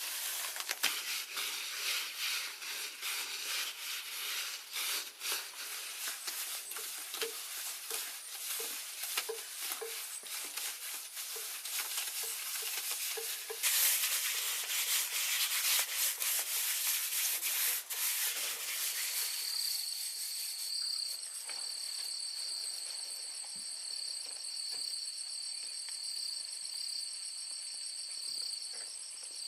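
Irregular rubbing and scraping strokes of hand work on a rough surface, louder for a few seconds about halfway through. They give way about two-thirds of the way in to a steady, high, pulsing trill of insects.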